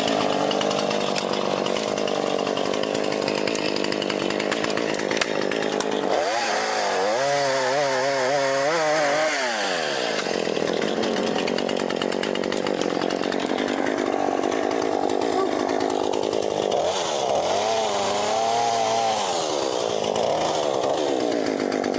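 A power tool running steadily for a long stretch. Twice its pitch rises and wavers up and down for a few seconds before dropping back.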